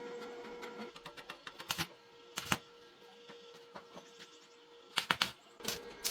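Hand tools clicking and knocking on metal engine parts in irregular sharp taps, some in quick runs, over a faint steady hum.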